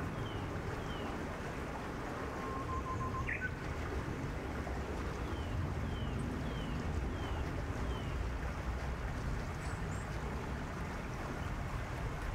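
Small songbirds calling: runs of short falling chirps about twice a second, and one flat whistled note with a quick rising note after it about three seconds in, over a steady low rush of outdoor background noise.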